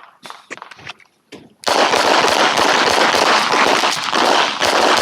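Rapid handgun fire: a fast string of pistol shots starting about a second and a half in, the shots coming so close together that they run into one another, with a brief dip in the firing near the end.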